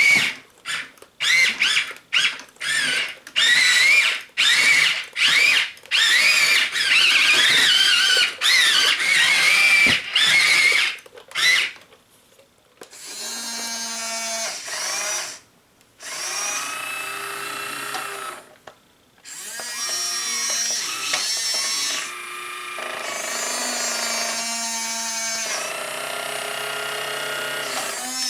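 Small electric gear motors of a Hobby Engine 1:12 scale radio-controlled excavator whining. For about twelve seconds the whine comes in many short stop-start bursts with a wavering pitch. After a brief pause it runs in longer steady stretches at a few different pitches. The owner suspects the turntable motor is giving out.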